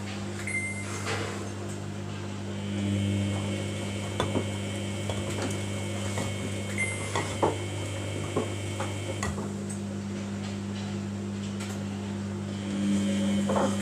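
Samsung washing machine running a wash cycle: a steady motor hum, with a higher whine coming in about three seconds in and dropping away near nine seconds, and scattered light knocks from the drum.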